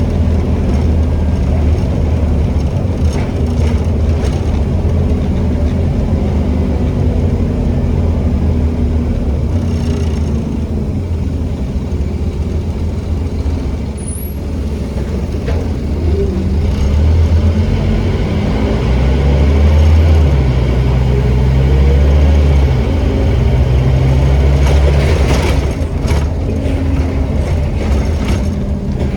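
Scania N270UD OmniCity bus engine running under way. About 17 seconds in, a kickdown: the automatic gearbox drops a gear and the engine revs up and runs louder for several seconds.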